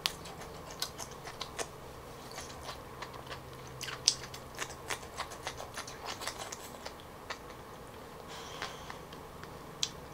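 Close-miked chewing and biting of grilled asparagus: crisp crunches and wet mouth clicks, with one sharper crunch about four seconds in.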